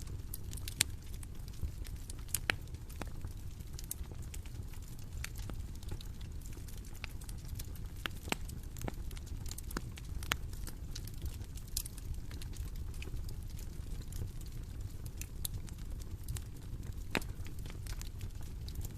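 Bonfire crackling: irregular sharp pops and snaps over a steady low rumble of burning.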